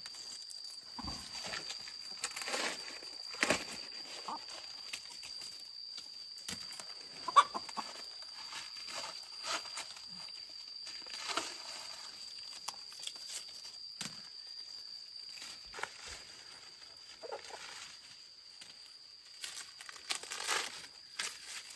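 Dry corn leaves and husks rustling and crackling in irregular bursts as ears are picked and handled by hand, with a few sharp snaps. A steady high insect drone runs underneath.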